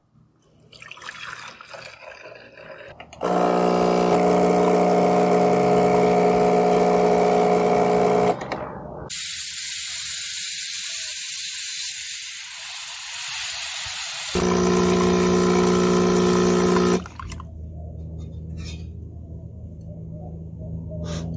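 Capresso espresso machine flushing its steam wand with clean water to rinse out vinegar descaler: the pump buzzes steadily for about five seconds, steam then hisses out of the wand for about five seconds, and the pump buzzes again for a few seconds before things settle to a low running noise.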